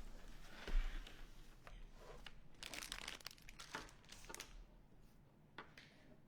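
Art supplies being handled and moved about on a table: crinkling and rustling with a knock about a second in and a quick run of clicks and rustles in the middle.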